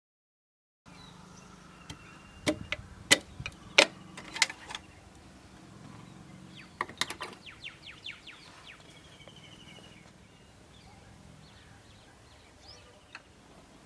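Scattered sharp clicks and knocks of piston rings being handled and fitted onto an engine piston by hand, then a quick run of about eight ticks a second around seven seconds in.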